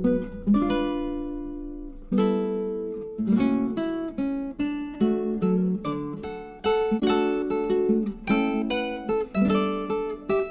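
Background music played on acoustic guitar, plucked and strummed notes and chords, some left to ring out.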